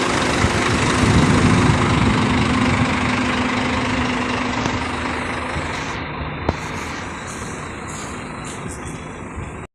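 Heavy bus engine idling steadily, a low hum running under it for the first half, the whole sound slowly getting quieter.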